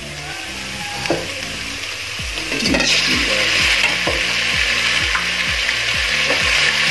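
Ground onion frying in hot oil in an aluminium pot, stirred with a steel ladle. The sizzle grows louder about three seconds in as pieces of fried chicken go into the pot.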